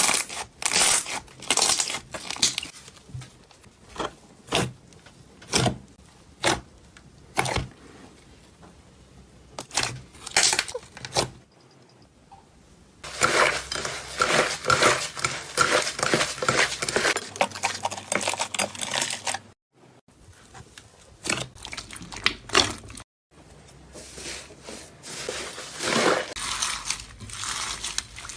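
Slime being handled: a run of short crackling, squishing pops, then denser continuous crackling and popping from about halfway through. Two brief abrupt cut-outs break the sound.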